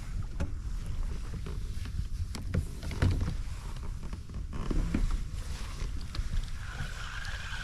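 Low rumble of wind on the microphone aboard a kayak, with scattered light knocks and clicks as gear is handled on the hull.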